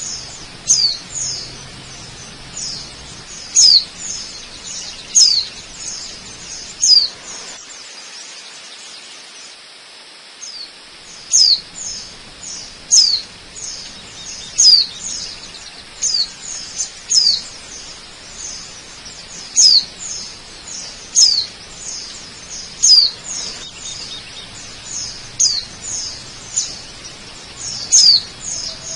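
Small birds calling with short, high chirps that fall in pitch, repeated in loose runs of several, over a steady hiss of falling water.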